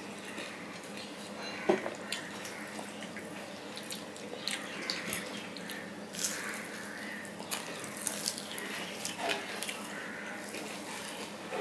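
Close-miked eating sounds: wet, smacking chewing of a mouthful of rice and curry eaten by hand, with scattered sharp little clicks and squelches as fingers mix rice on a steel plate.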